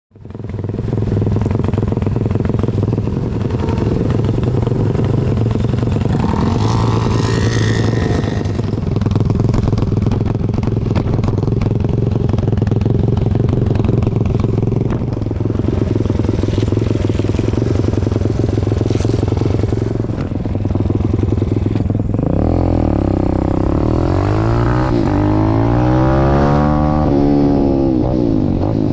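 Pit bike's Zongshen ZS190 single-cylinder four-stroke engine running hard and steady. For the last several seconds its pitch repeatedly rises and falls as it revs up and drops back.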